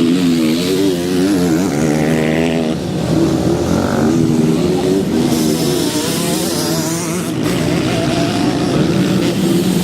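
Motocross motorcycle engine running hard, its pitch rising and falling continually as the throttle is worked.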